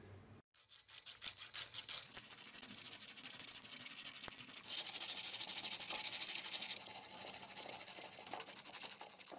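Rapid scraping and rubbing strokes on a metal part of the grinder during its restoration, as from hand abrasion or brushing. They start about half a second in, run thickest through the middle and thin out toward the end.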